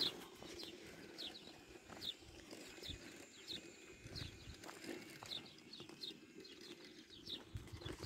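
Small birds chirping faintly: a scattered series of short, high, falling chirps.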